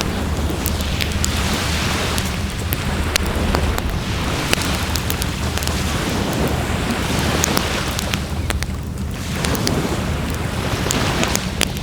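Wood fire crackling with many sharp pops, over a steady rush of wind and surf.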